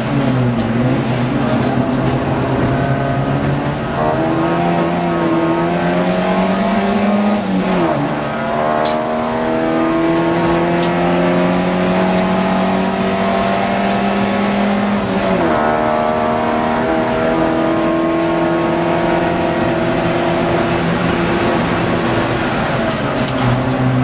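Ford Fiesta XR2 race car's four-cylinder engine heard from inside the cockpit under hard acceleration on track. The revs waver through the first couple of seconds, then climb slowly, dropping sharply twice at upshifts, about eight and fifteen seconds in.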